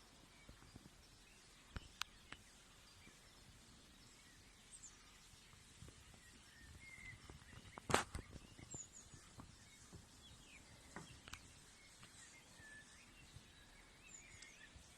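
Quiet forest ambience with faint high bird chirps and a few sharp clicks or snaps, the loudest about eight seconds in.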